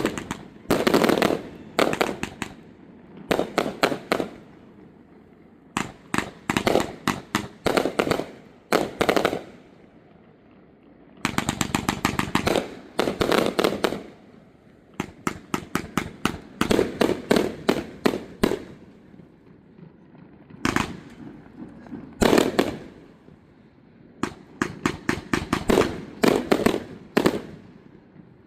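Fireworks display: aerial shells bursting in clusters of sharp bangs and rapid crackling volleys, with short lulls between the volleys.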